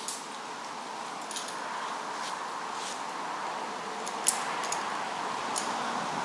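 Metal climbing hardware, carabiners and rope gear, clicking and clinking while a progress-capture rescue system is rigged. There are a handful of sharp clicks over a steady hiss, the loudest about four seconds in.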